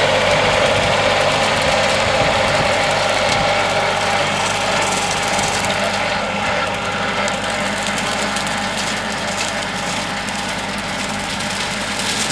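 Tractor engine running steadily while mowing the field, a constant drone that slowly grows fainter.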